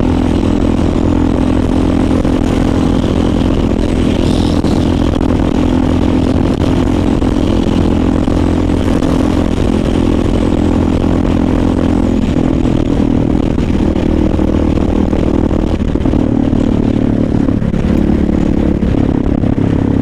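Honda XR dual-sport motorcycle's single-cylinder engine running steadily at highway speed over a constant rush. The engine note shifts about halfway through and dips briefly a few times near the end.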